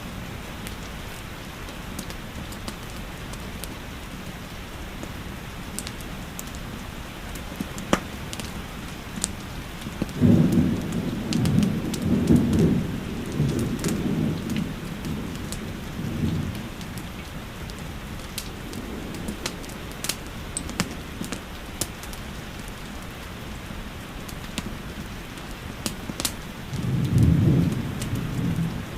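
Steady rain with scattered sharp crackles from a wood fire. A low rumble of thunder swells up twice: one long roll in the middle, and a shorter one near the end.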